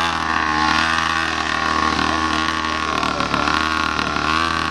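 Minimoto engine running at fairly steady revs, its pitch wavering slightly up and down.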